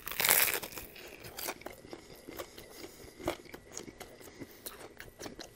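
A crunchy bite into a fried, breaded chicken-breast chalupa shell, loudest in the first half-second. It is followed by close-up chewing with scattered small crunches and clicks.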